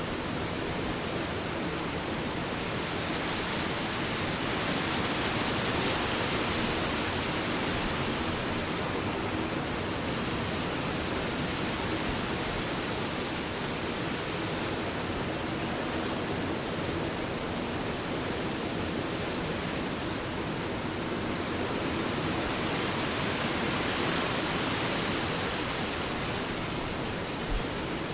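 Ocean surf on a beach: a steady hiss of waves that swells louder twice, about five seconds in and again near the end.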